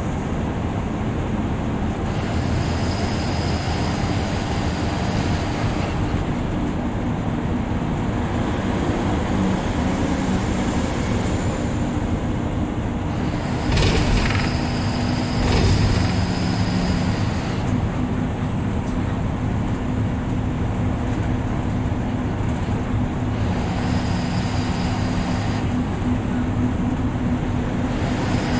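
Steady engine and road noise heard from inside a moving intercity bus's driver cabin, with a steady hum under it. Two short loud jolts come just after the halfway point.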